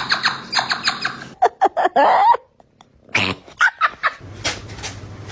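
A pet animal giving a quick series of short, high squeaks and chirps, then longer squealing cries. After a brief silence at a cut, more short animal cries follow.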